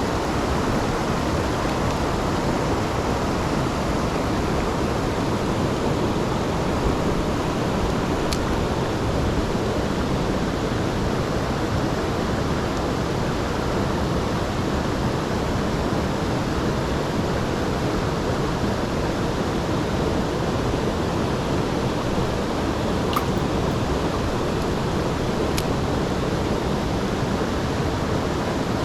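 Mountain stream rushing over rocks: a steady, unbroken rush of water, with a few faint clicks.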